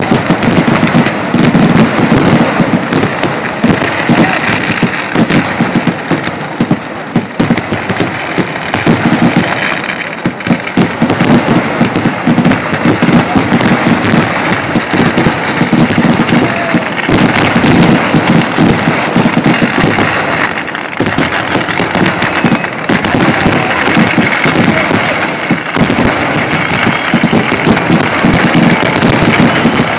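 Loud Kerala temple fireworks (vedikettu) going off in a dense, nearly unbroken barrage: bangs of firecrackers and bursting aerial shells follow one another many times a second.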